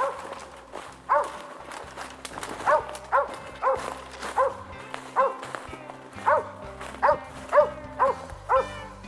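Hunting dog barking over and over in a steady chop, with a couple of spaced barks at first and then about two barks a second.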